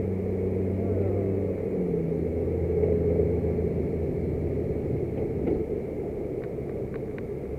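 Car engines running close by at a road intersection, their low hum stepping up and down in pitch as a car pulls across in front. A few light clicks near the end.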